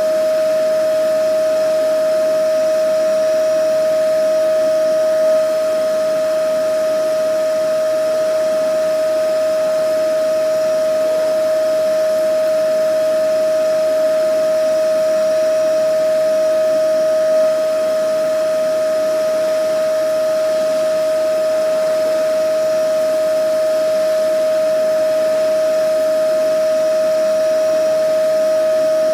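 Vacuum cleaner running steadily: a constant high motor whine over an even rush of air, with a slight brief swell twice.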